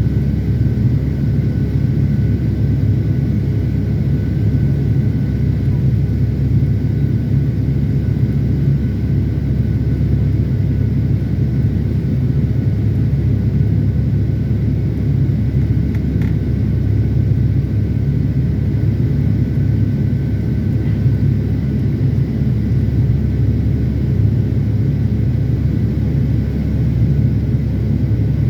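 Steady cabin noise of a Boeing 757-300 airliner in flight, a deep even rumble of engines and airflow heard from inside the cabin.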